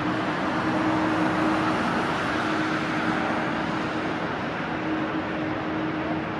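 Jet airliner engines giving a loud, steady rush with a low hum, easing off slightly toward the end.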